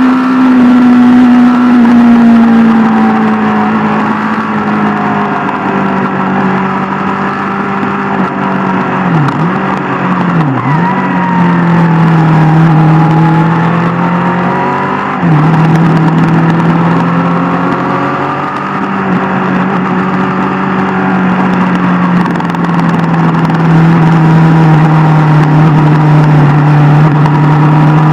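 Superbike engine running steadily under way, heard from on the bike. The revs drift slowly down, with three quick dips in the engine note and recoveries near the middle.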